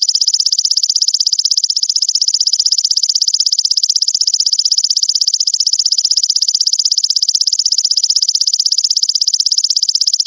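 Grasshopper stridulating in a continuous high-pitched trill of very rapid, even pulses.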